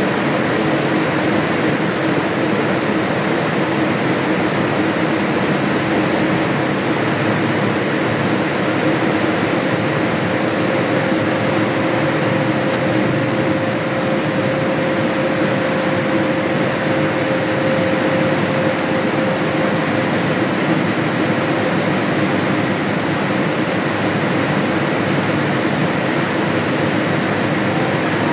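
Steady airliner cabin noise inside a Boeing 787-8 Dreamliner on approach: an even rushing hiss of airflow and engines with a steady low hum, and a second, higher hum that comes in about nine seconds in and fades out about ten seconds later.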